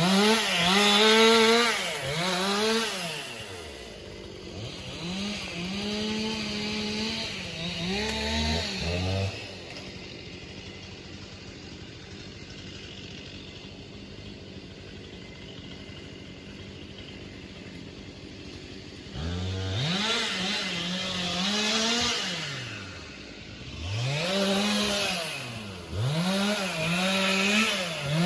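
Two-stroke chainsaw revved in repeated bursts, its engine pitch climbing and falling. About nine seconds in it drops to a steady idle for roughly ten seconds, then revs again several times near the end.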